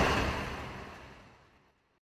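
Union Pacific freight train rolling past, a low rumble with wheel noise, fading out to silence about one and a half seconds in.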